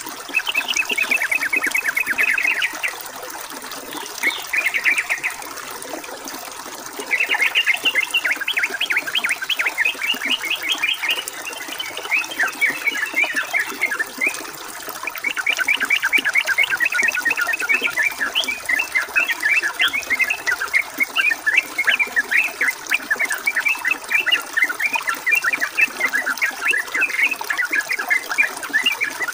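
Yellow-vented bulbul (trucukan) singing in long phrases of rapid, chattering notes, with short pauses between phrases, over steady trickling water.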